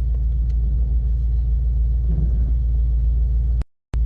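Steady low rumble of a Mercedes G-Class heard from inside or right beside it, with a faint voice partway through. The sound drops out to silence for a moment near the end.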